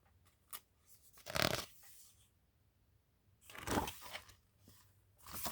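Paper pages of a picture book being handled and turned: two short papery rustles, about a second in and again near four seconds, with a few light clicks between.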